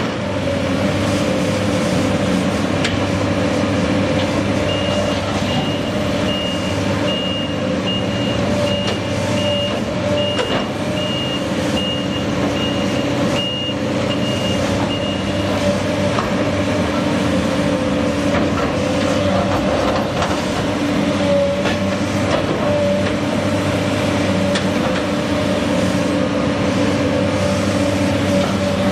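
A heavy truck or construction machine runs steadily. For about ten seconds a reversing alarm beeps at a steady high pitch, a little faster than once a second.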